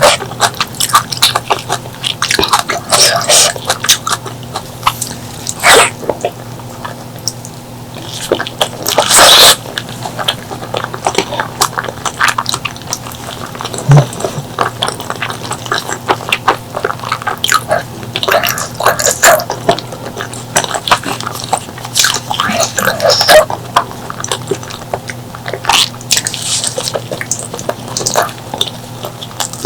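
Close-miked eating of spicy pork leg curry and rice: wet chewing and lip-smacking made of many short clicks, with a few louder noisy bursts of mouth sound.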